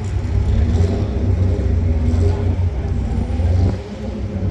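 A car engine running with a deep, low rumble, briefly dropping in level near the end.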